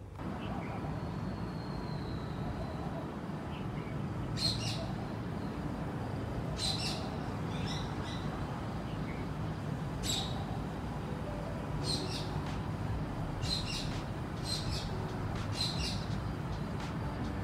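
Small birds giving short, high chirps every second or two, over a steady low background rumble.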